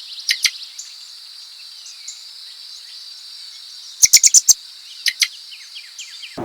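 Songbird giving sharp, high chirps in short runs, the longest a quick burst of about five notes around four seconds in, over a steady high insect drone.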